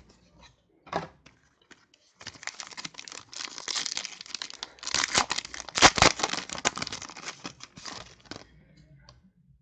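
Foil trading-card pack wrapper being torn open and crinkled by hand: a couple of brief crackles, then several seconds of continuous tearing and crinkling that peaks a little past the middle and fades out near the end.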